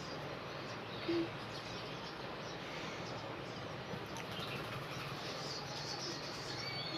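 Faint birds chirping over a steady background hiss, with one short low hum about a second in.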